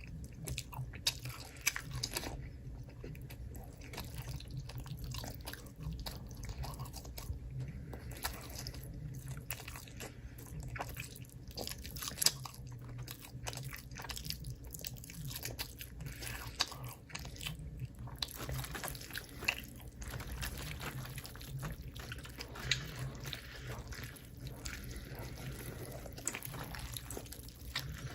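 A person chewing and biting crunchy food close to the microphone, with irregular sharp crunches and crackles over a steady low hum.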